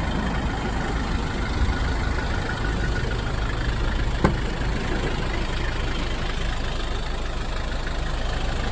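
Nissan TD27 naturally aspirated four-cylinder diesel idling steadily and smoothly. One sharp click about four seconds in.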